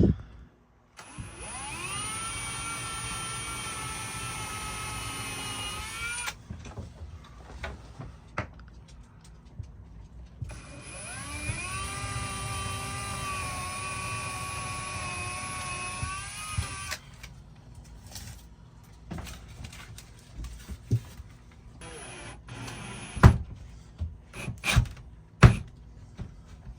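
Power drill run twice for about five and six seconds, its motor whine rising in pitch as it spins up each time. Several sharp knocks and clicks follow near the end.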